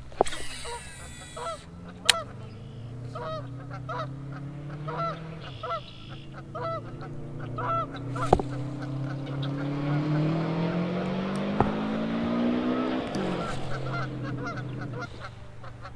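Geese honking repeatedly, one or two short calls a second, over the low steady drone of an engine that swells louder and shifts in pitch for a few seconds past the middle, then fades.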